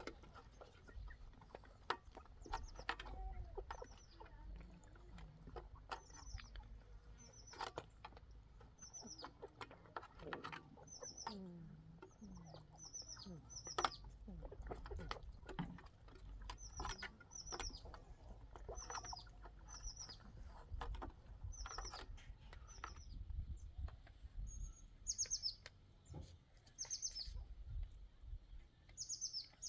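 A bird chirping over and over, short high chirps that drop sharply in pitch, about one a second and quicker near the end, with scattered light clicks and taps.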